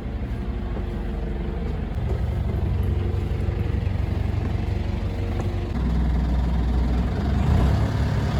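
Small passenger boat's engine running and growing steadily louder, with a step up in low rumble about six seconds in as it revs up.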